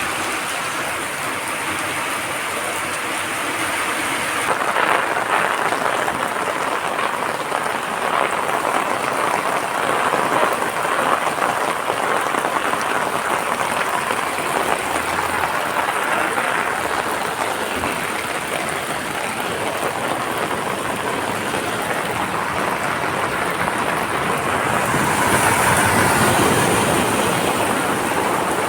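Heavy rain falling steadily, a dense continuous hiss of drops on surfaces that grows heavier about five seconds in and again near the end.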